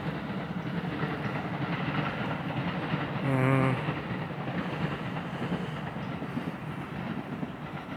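Train rumbling across a rail bridge, a steady clattering noise. A brief wavering tone stands out about three and a half seconds in.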